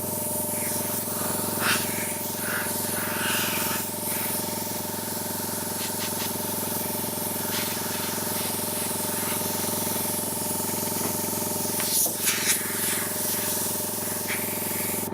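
Hot air gun blowing steadily, a motor hum under a rushing air hiss, with a few faint knocks. It cuts off suddenly near the end.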